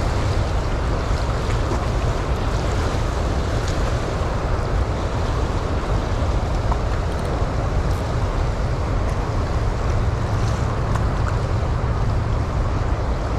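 Steady rush of water pouring through a dam's open flood gates, with wind buffeting the microphone.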